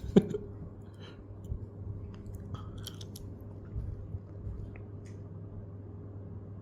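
A person chewing, with a sharp click right at the start and a few scattered crunches after it, over a steady low electrical hum.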